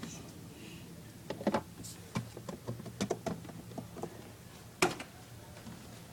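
Scattered light clicks and knocks of plastic toy parts being handled and fitted together, with the sharpest knock about five seconds in.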